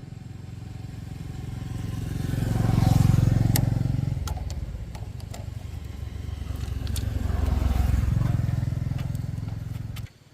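Motorcycle engine running, growing louder twice and easing off between, with a few sharp clicks, then cutting off abruptly near the end.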